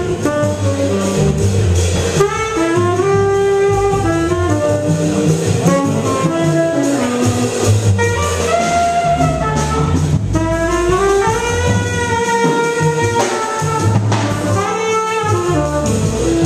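Jazz music: a horn melody, most like a saxophone, over a moving bass line and drums.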